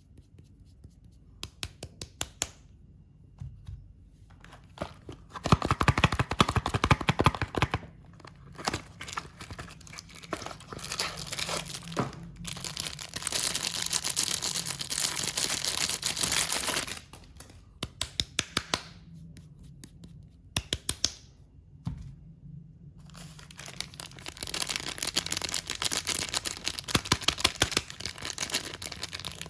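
Packaging being torn open and crinkled as soap bars are unwrapped, in several long stretches with runs of sharp ticks between them.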